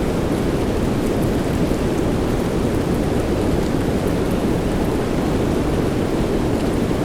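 Steady soft rain mixed with a deep, even white-noise hiss, with faint scattered ticks of droplets.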